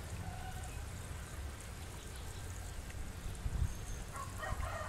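Birds calling outdoors: a few faint calls over a low steady rumble, then a short burst of louder, rougher calls near the end.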